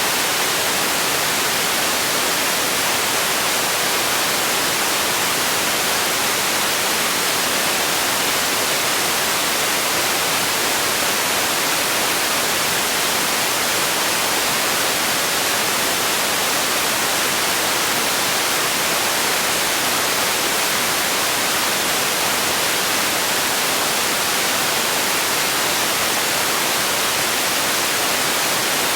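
Steady synthetic noise: an even, unchanging hiss, strongest in the treble, with no events or changes.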